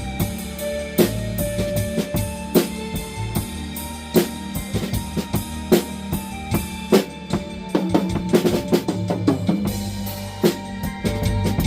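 Drum kit played to a blues backing track: steady stick strokes with bass drum and snare over held bass and keyboard notes, with a quick run of strokes, a fill, about eight seconds in.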